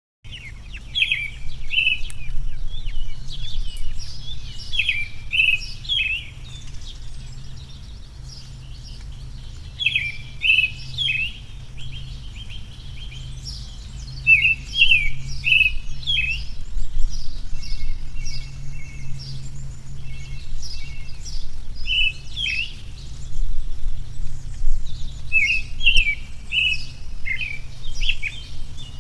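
Birds chirping in short bursts of quick, high chirps that come back every few seconds, over a steady low hum.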